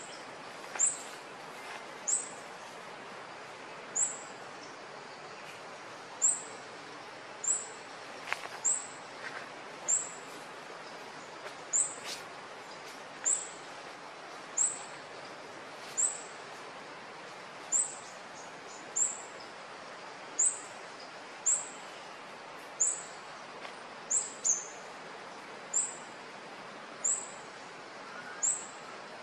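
A bird's short, very high chirp repeated over and over, about every second and a half, over a steady outdoor hiss.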